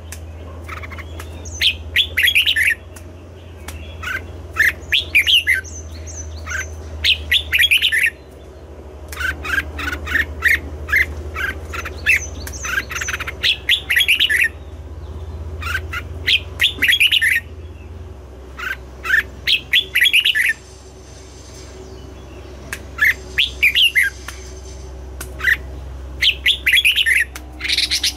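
Red-whiskered bulbul singing: short bursts of quick, chirpy whistled phrases, repeated every couple of seconds, with a steady low hum underneath.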